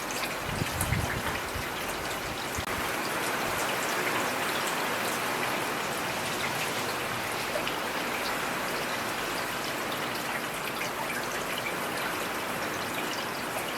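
Heavy rain falling steadily as an even wash, with many single drops ticking close by. A few low thuds come about a second in.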